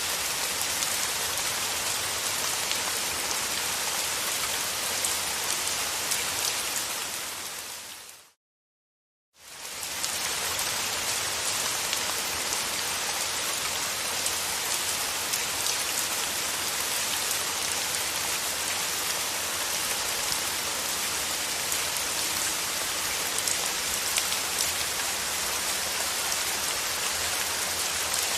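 Steady, heavy rain falling on surfaces, with fine patter of individual drops. About seven seconds in it fades out to complete silence for roughly a second, then fades back in, as at the join of a looped recording.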